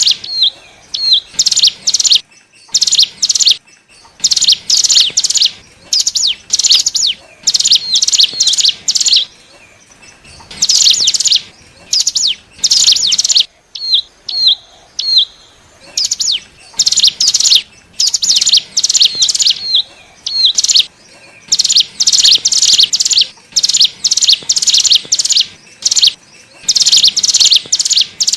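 Ciblek gunung (cigun) song, a lure call for wild cigun: loud, rapid bursts of high, scratchy chirps repeated with short pauses between them, and a few separate short hooked whistles in the gaps.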